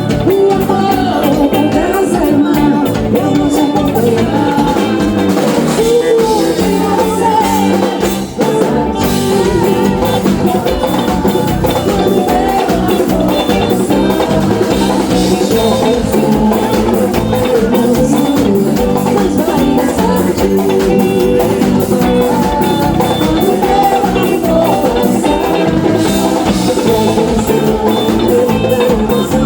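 Brazilian axé song played by a band: a drum kit and percussion keep a fast, steady beat under the instruments, with singing.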